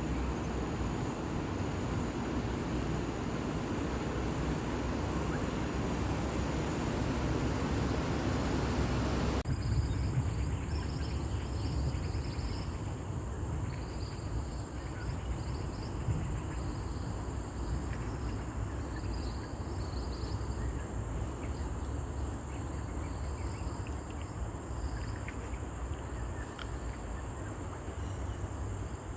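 Forest ambience: a steady high-pitched insect drone over a low rumble, changing abruptly about nine seconds in, after which scattered bird chirps come through.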